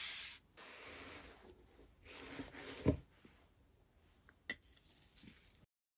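Slime being squished and rubbed by hand: three bursts of rubbing noise over the first three seconds, ending in a soft thump, then a sharp click and fainter handling before the sound cuts off abruptly.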